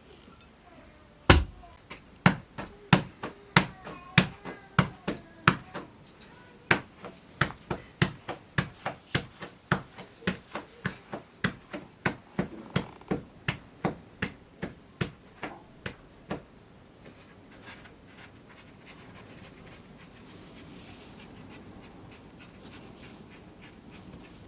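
A long run of sharp knocks or blows, about two a second, that stops after some fifteen seconds.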